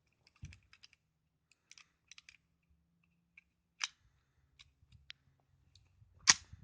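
Faint scattered clicks and small handling knocks from the Luger pistol being readied between strings of fire, with one sharper click near the end.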